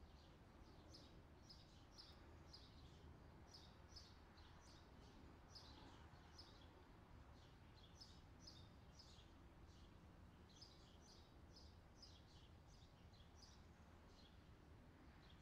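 Faint, high, short bird chirps repeating a few times a second, with a brief lull around the middle, over a low steady hum of rural background noise.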